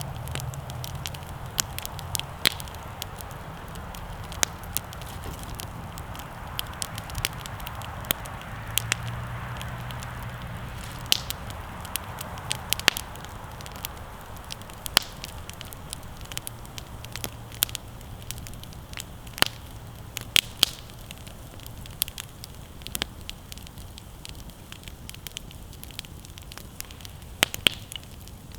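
Wood campfire crackling: sharp, irregular pops and snaps of burning twigs and logs over a steady low rush of the flames.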